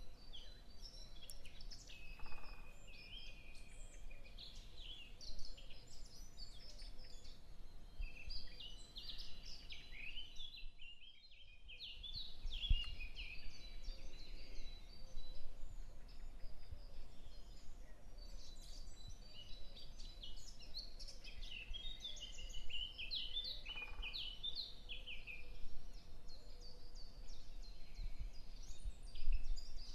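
Many small birds chirping and twittering, with a short break about eleven seconds in.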